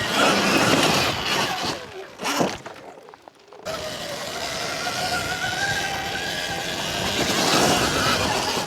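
Sur-Ron Ultra Bee electric dirt bike being ridden: loud wind and tyre noise at first, then, after a sudden change a few seconds in, the electric motor's steady whine over the noise.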